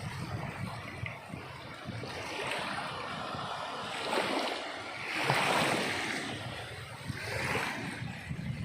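Sea waves breaking and washing on the shore, in a steady hiss that swells and eases with each wave; the biggest surges come about four to six seconds in.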